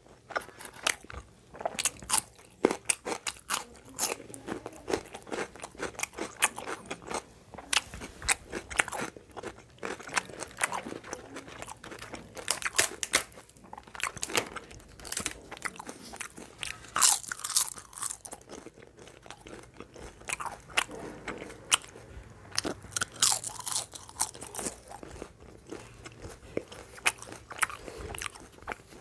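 A person chewing and crunching food close to the microphone, with many sharp, irregular crunching clicks, several a second.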